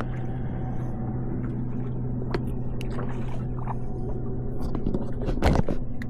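Sailboat's engine running steadily with an even low hum, with a few light clicks and a louder knock about five and a half seconds in.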